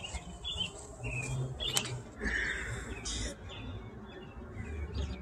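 Short bird chirps now and then over a low steady rumble, with one sharp click a little under two seconds in.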